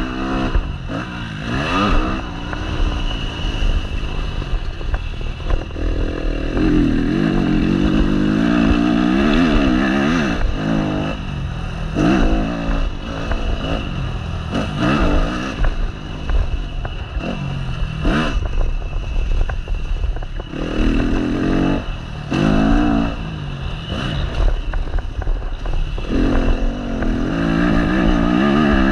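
A Yamaha motocross bike's engine, heard from on board, revving up and dropping back over and over as it accelerates and shifts around the track. Clattering and a few sharp knocks come through from the bike over rough ground.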